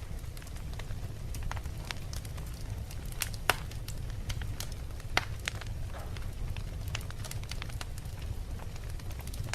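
Wood fire burning in a fireplace, logs crackling over a steady low rumble of the flames, with sharp pops scattered throughout, two louder ones about a third and halfway in.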